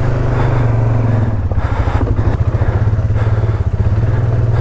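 ATV engine running at steady low revs, an even drone with a pulsing beat.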